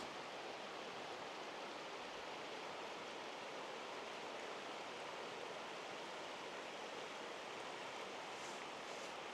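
Steady rush of a stream's flowing water, an even hiss with no breaks.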